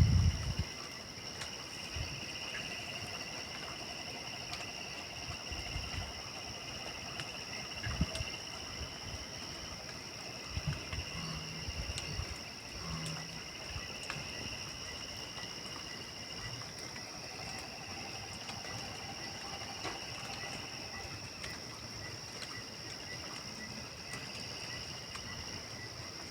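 Steady night chorus of crickets and other insects, with frogs calling, several pulsing high-pitched trills layered together. A few low thumps are scattered through it.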